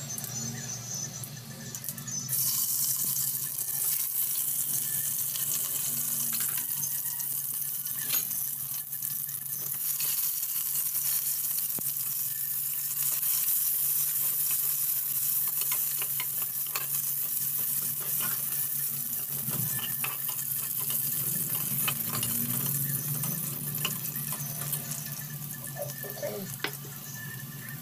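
Sliced onions sizzling in hot oil in an aluminium pressure cooker, stirred with a steel spatula that scrapes and clicks against the pot. The sizzle starts loudly about two seconds in.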